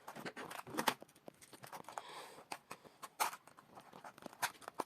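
Plastic packaging of a fishing wobbler being opened by hand: irregular crinkling, crackling and small clicks.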